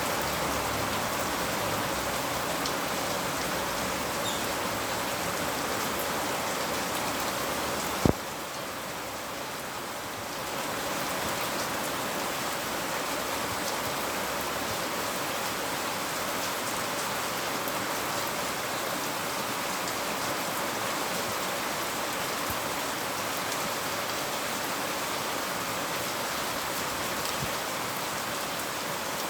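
Steady rain falling, an even hiss of drops. There is a single sharp knock about eight seconds in, after which the rain sounds a little duller for a couple of seconds.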